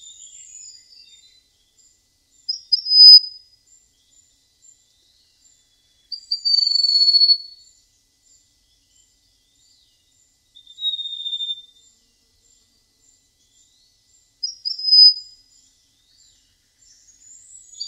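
Prenjak emas songbird giving clear, flute-like whistled phrases, four times about four seconds apart. Each phrase is a drawn-out high whistle, some opening with a short higher note.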